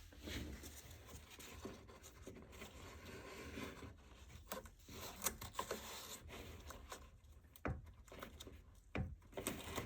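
Adhesive tape being pulled off the roll and torn, with scattered light taps and scratchy rubbing as strips are pressed over the molding trim.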